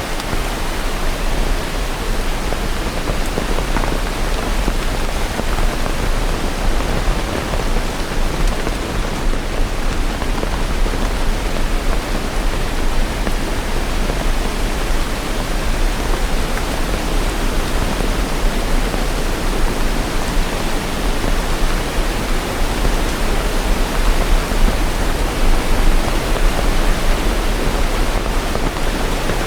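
Steady heavy rain: an even, unbroken hiss with no distinct drops or thunder, over a deep low rumble.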